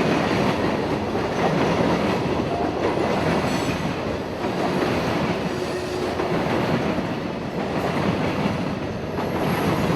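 Freight train rolling past: a steady, loud rumble and rattle of wheels on rail, with a faint high squeal from the wheels.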